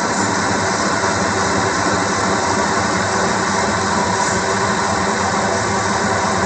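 Steady, unchanging background noise, an even rumble and hiss like a running machine or vehicle, with no other events.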